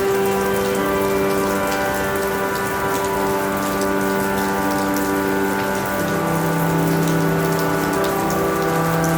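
Steady rain falling on a surface, with many small drop ticks through an even hiss. Underneath runs a soft drone of held notes whose lowest note steps down about six seconds in.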